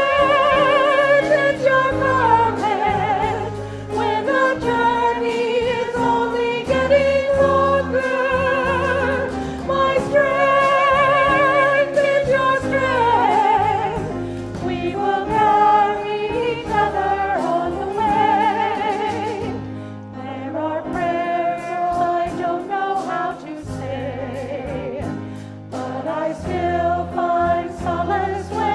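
Voices singing a slow hymn with vibrato over sustained instrumental accompaniment, sung in choir style.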